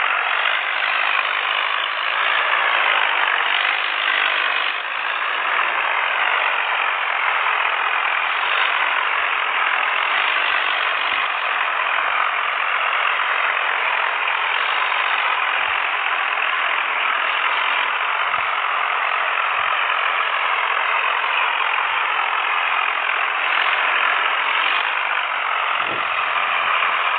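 Tractor diesel engines running, a steady loud drone with slow shifts in pitch.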